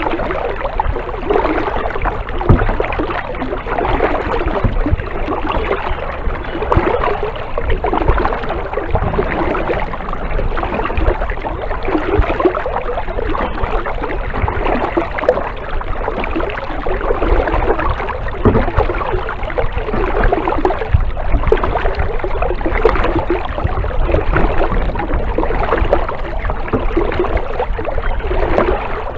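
Kayak paddle strokes splashing and dripping in the water, swelling about every two seconds, over a steady low rumble.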